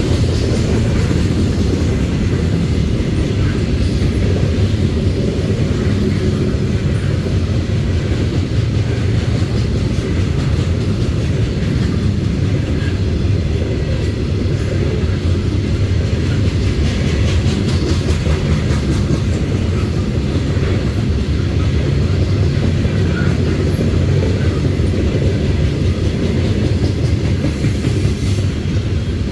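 Loaded coal gondolas of a Norfolk Southern freight train rolling past at steady speed: a continuous heavy rumble with wheels clicking over the rail joints.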